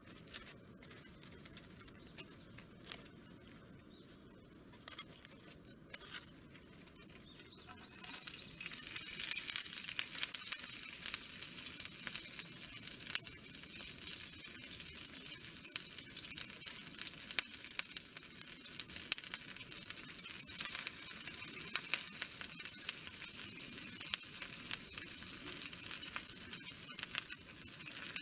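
Food frying in a hot pan: a dense crackling sizzle that starts suddenly about eight seconds in. Before that, only sparse small pops.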